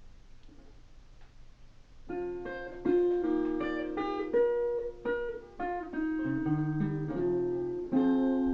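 Acoustic guitar playing a song intro, single notes plucked one after another over a low bass line, starting about two seconds in after a quiet lead-in.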